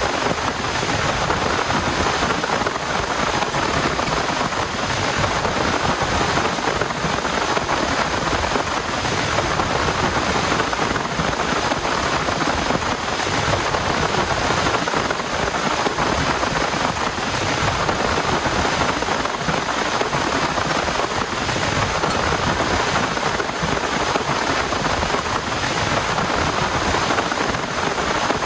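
Heavy rain falling, a steady dense hiss that neither builds nor eases.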